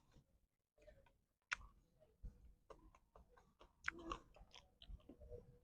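Near silence with faint, scattered clicks and small knocks, a little busier about four seconds in: the quiet sounds of someone eating.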